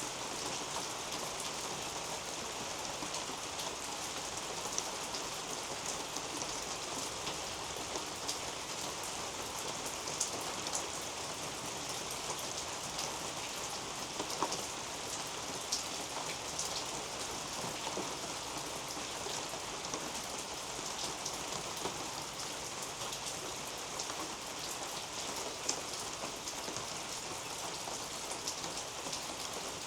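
Steady rain falling on a garden's leafy potato-patch canopy: an even hiss with scattered louder drops striking close by.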